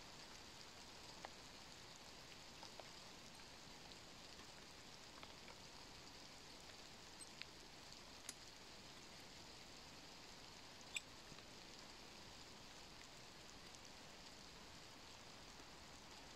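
Light rain falling, a faint even patter, with a few small clicks; the sharpest comes about eleven seconds in.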